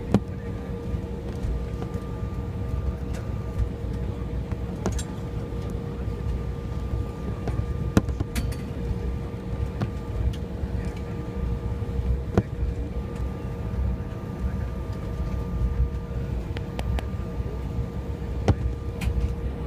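Cabin noise inside an Embraer 175 airliner: a steady low rumble of engines and air with a constant hum running through it, and a few sharp clicks now and then.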